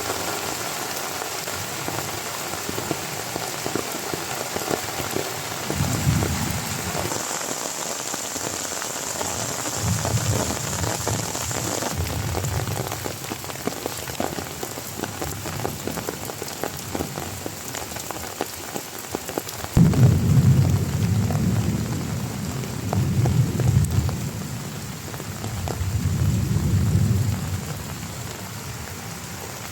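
Heavy rain falling steadily, with thunder: low rumbles in the first half, then a sudden clap about twenty seconds in that rolls on in waves for several seconds.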